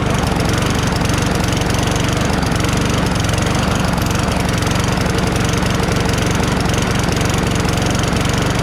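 Toro Recycler mower's 6.5 HP Tecumseh engine running steadily.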